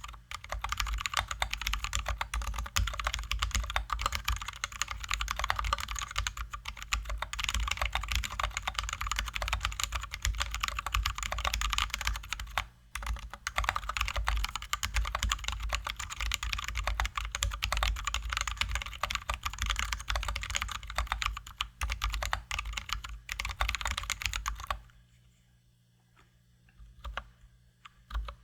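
Fast, continuous typing on a Drop ALT high-profile mechanical keyboard with lubed and filmed Zealios V2 67g tactile switches and XDA-profile keycaps. Near the end the typing stops, leaving only a few single keystrokes.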